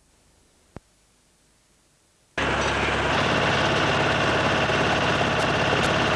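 Near silence with a single click, then about two seconds in a loud, steady engine noise of heavy demolition machinery cuts in abruptly and keeps running.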